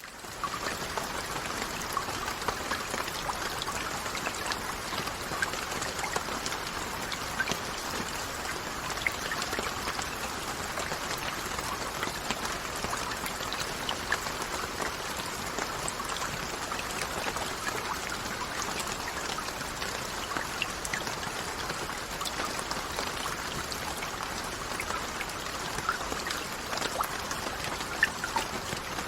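Steady rainfall with many individual drops striking, coming in quickly at the start and then holding even.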